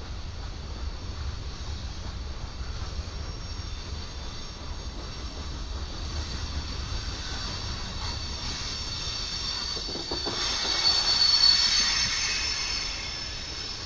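Freight train cars (boxcars and tank cars) rolling past on steel rails with a steady low rumble. A high metallic wheel squeal swells in about eight seconds in, is loudest around eleven to twelve seconds, then fades.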